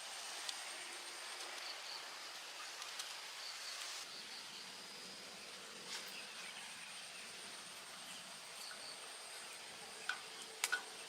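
Faint outdoor background with insects chirping in a pulsing, high-pitched pattern, and a few sharp clicks about a second before the end.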